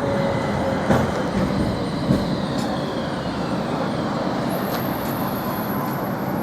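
Manyōsen tram running, a steady rumble with a couple of knocks in the first two seconds and a whine that falls in pitch. A thin high squeal comes in past the middle and lasts over a second.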